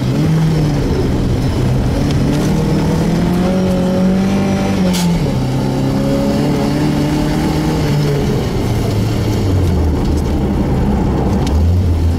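Volvo 240 rally car's engine heard from inside the cabin. The revs climb steadily, then drop suddenly about five seconds in with a sharp click. They ease lower over the following seconds and pick up again near the end.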